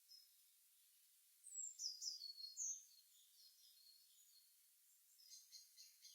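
Songbirds chirping faintly over a soft hiss. About a second and a half in comes a cluster of high, downward-sweeping chirps, the loudest part. Softer notes follow, then a quick run of repeated chirps near the end.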